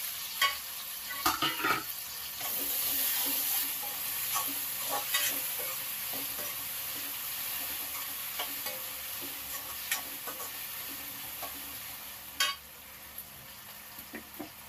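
Onion and freshly added tomato frying with a steady sizzle in a steel kadai, while a steel slotted spatula stirs and scrapes against the pan with scattered clicks. A sharp clink comes near the end, and the sizzle is quieter after it.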